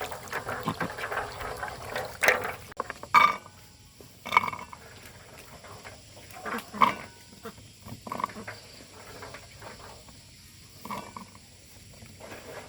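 An animal's short calls, one at a time at irregular intervals, among a few knocks and rustles.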